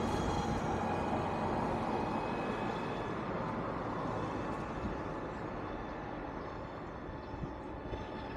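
Road traffic: the noise of a passing vehicle fading steadily as it moves away.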